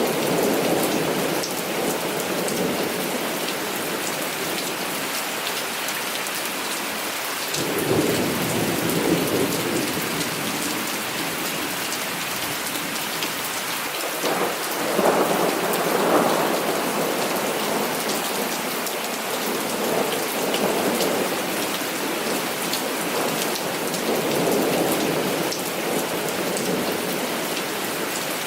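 Heavy rain falling steadily with thunder rumbling several times. One roll starts abruptly about eight seconds in, and the loudest comes around the middle.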